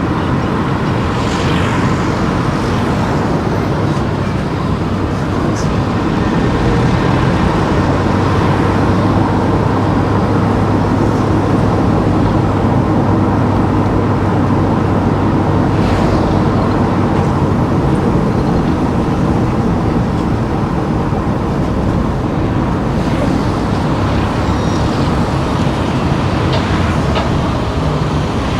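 Car driving along a street: steady engine and tyre noise, with a low hum that grows stronger for a stretch in the middle.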